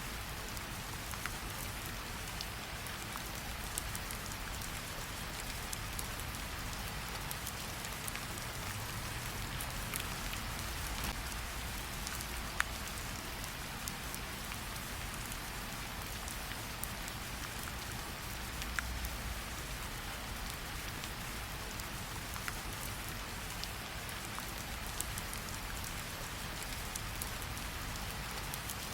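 Steady rain falling, an even hiss with a low rumble underneath, mixed with the occasional sharp pop of a crackling campfire, the loudest about midway.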